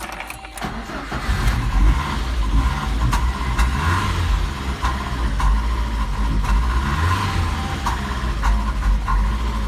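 VAZ-2111 1.5-litre eight-valve four-cylinder engine starting about a second in, then running steadily with a light recurring tick; the seller says a hydraulic valve lifter taps a little.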